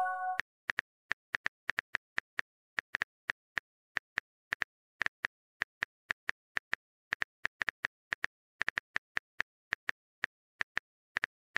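A chat message-alert chime fades out in the first moment, followed by a long run of quick, irregular clicks, a few a second: the key-tap sound effect of typing on a phone keyboard.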